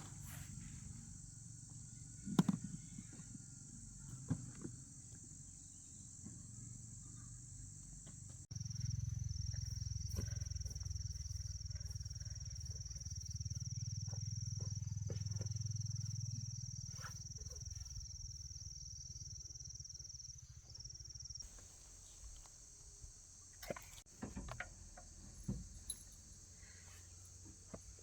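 Insects chirping steadily in a continuous high-pitched chorus, with scattered clicks and knocks. A low rumble runs through the middle stretch.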